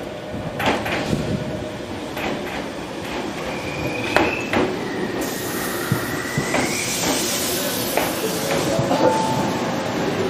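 Keikyu 1000-series train running on the track: scattered sharp clicks, two drawn-out high squeals about four and six seconds in, and a hiss that joins about five seconds in.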